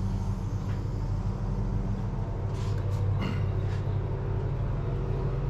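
Chrysler 440 big-block V8 in a 1973 Dodge Road Runner running steadily without mufflers, freshly revived after sitting for years, with a few short clicks a little past the middle.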